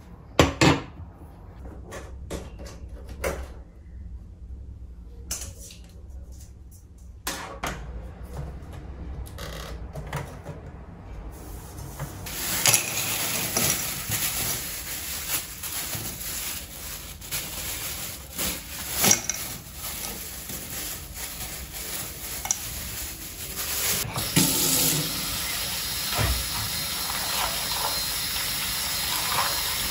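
Kitchen work: dishes and utensils clinking and knocking, then about twelve seconds in a steady rushing hiss starts and carries on under further clinks.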